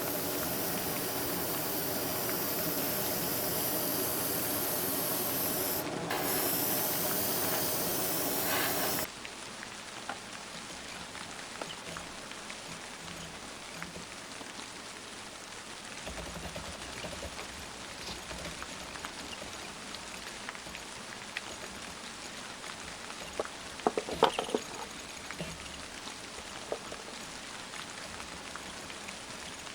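An airbrush spraying with a steady hiss for about nine seconds, briefly interrupted about six seconds in, then cutting off. After that, soft steady rain carries on, with a few small clicks and taps about two thirds of the way through.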